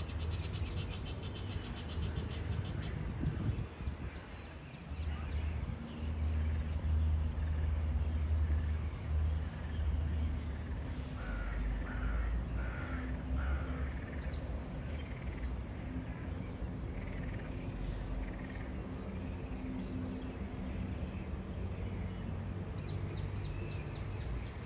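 Geese calling with short, repeated honks, clearest in a run of three or four calls about halfway through, over a steady low rumble.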